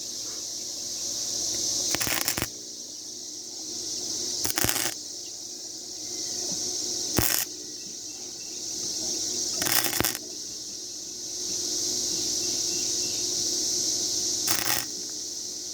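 Wire-feed welder laying tack welds on thin bedframe steel: five brief bursts a few seconds apart.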